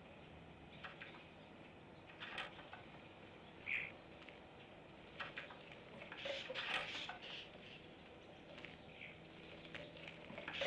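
Small songbirds chirping and calling: a few spaced single chirps, then a busier run of chirps and clicks about six to seven seconds in, over a faint steady low hum.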